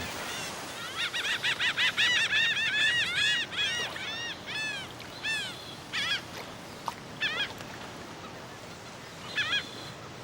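A flock of gulls calling: a quick run of short, arched calls for the first five seconds or so, then only scattered calls.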